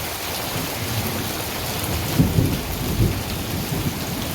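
Steady heavy rain falling during a thunderstorm, with a low rumble of thunder surging about two to three seconds in.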